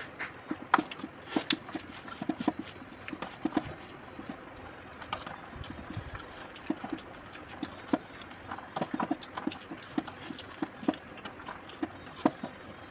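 Close-up eating sounds of a person eating rice by hand: chewing and lip smacks heard as irregular short clicks, with fingers working the rice on a steel plate.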